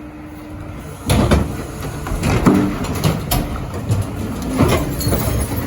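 Heil Dura-Pack rear-loader recycling truck running with a steady low rumble, with sharp knocks and clatters about a second in, near three seconds and near five seconds as recycling goes into the truck.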